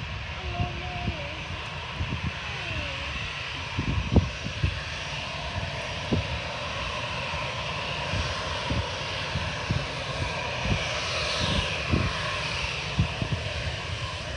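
Jet airliner's engines running, a broad rushing roar that swells and then shows a falling high whine about two-thirds of the way in as the plane goes past. Irregular low thumps sound throughout.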